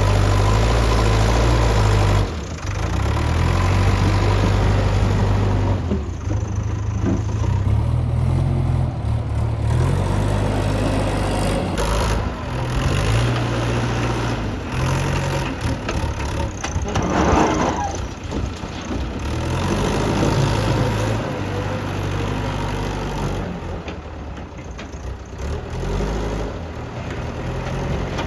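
Diesel engine of a JCB 3DX backhoe loader running under changing load, its note rising and falling as the machine digs and loads. The sound drops noticeably about two seconds in.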